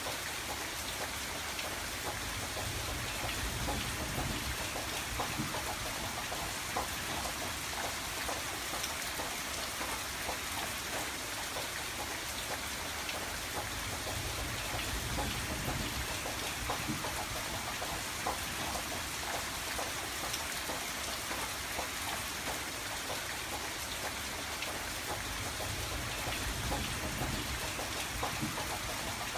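Steady rain falling on a window, with many small drop taps over an even hiss and a low rumble that swells from time to time.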